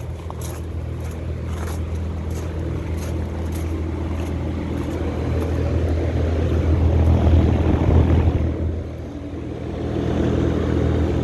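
Residential central air-conditioner condensing unit running: a steady compressor hum under the rush of the condenser fan. The fan noise swells about two-thirds of the way through, dips briefly, then comes back.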